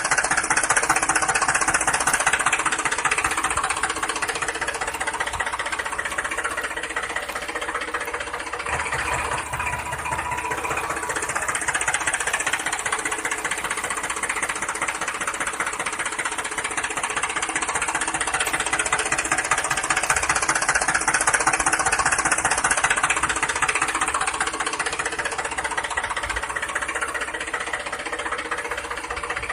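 Steady whirring of a toy vehicle's small motor and plastic gears, running on with a fast, even chatter.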